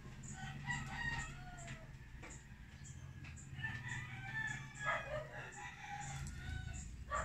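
Birds calling: a series of pitched calls that rise and fall, over a low steady hum.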